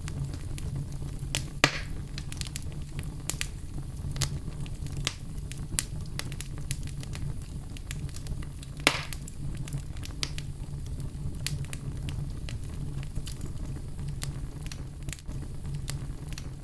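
Wood fire crackling in a fireplace: a steady low rumble with frequent small crackles and pops. Two louder pops come about two seconds in and about nine seconds in.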